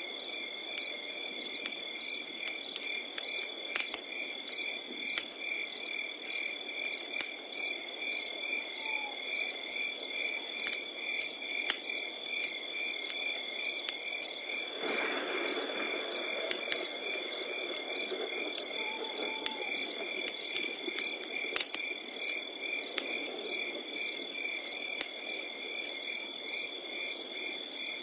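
Night insects chirping in an even rhythm, about two chirps a second, over a steady high trill. A wood fire crackles with scattered sharp pops under a low rushing noise, which briefly grows louder about halfway through.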